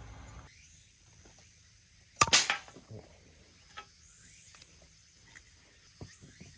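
A loud, sharp knock, struck twice in quick succession about two seconds in, followed by a few light clicks and knocks as camp gear or wood is handled. A faint steady high insect trill runs underneath.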